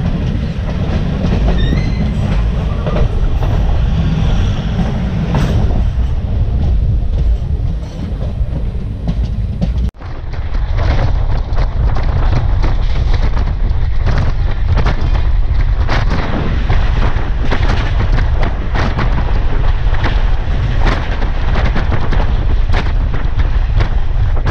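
Train running at speed, heard from its open doorway: a loud, steady rumble with rapid clatter of wheels over rail joints, joined by another train rushing past on the next track. There is an abrupt break in the sound about ten seconds in, after which the clatter is denser.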